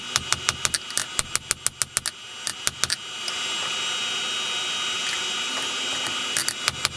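Hammer blows on steel at the anvil, a quick run of about five ringing strikes a second, then a few more. They stop for about three seconds, during which only a steady rushing noise is heard, and resume near the end.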